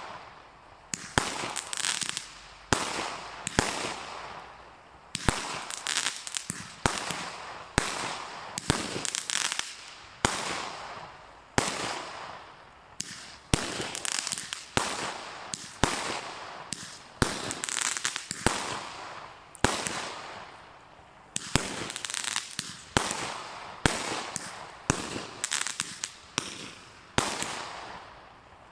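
Hurricane 144-shot firework cake firing in quick succession: sharp bangs about one or two a second, each trailed by fizzing crackle as the stars and crackling effects burn out.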